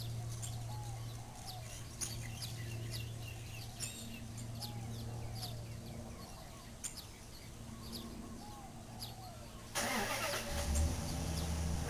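Outdoor ambience: small birds chirping with short high calls over a steady low hum, and from about ten seconds in a car passing close by.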